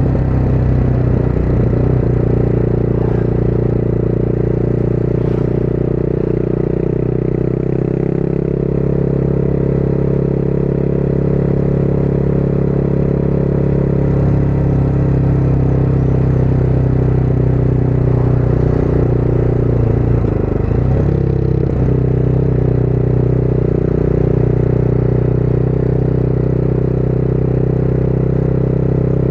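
Motorcycle engine running on the road at a steady pace, its pitch shifting a few times, with a brief dip and pick-up about twenty seconds in as the rider changes speed.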